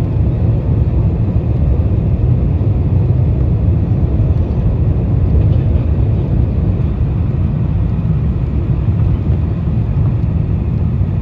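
Steady low rumble of airflow and engines heard inside the passenger cabin of a Boeing 747-400 in flight, during the approach.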